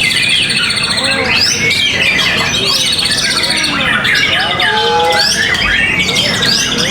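Many caged songbirds singing at once: a dense, loud tangle of overlapping whistles, fast trills, chirps and squawks, as the birds compete for the judges.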